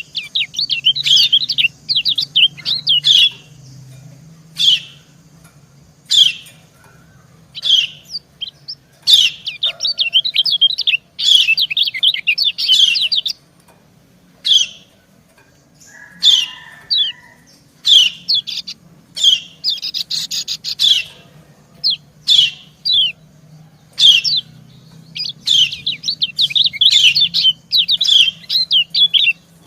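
Yellow white-eyes (kecial kuning) chirping in quick bursts of rapid high 'ciak' calls with short pauses between them. These are female calls that answer a male.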